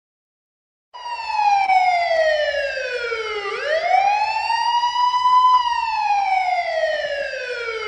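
A siren wailing, starting about a second in: its pitch slides slowly down, swings back up and holds high, then slides down again and begins to rise near the end.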